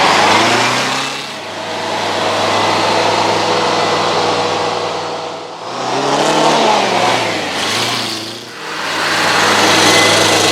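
A large truck engine running and being revved, its pitch rising and falling a few times, most clearly about six to eight seconds in.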